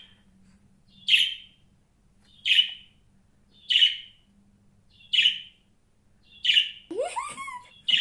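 Pet budgerigar giving short, sharp single chirps at an even pace, about one every 1.3 seconds, six in all, with a brief rising squeak near the end.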